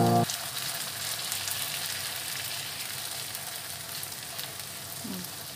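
Sardine omelette patties (tortang sardinas) shallow-frying in hot oil in a pan: a steady sizzle with small crackling pops.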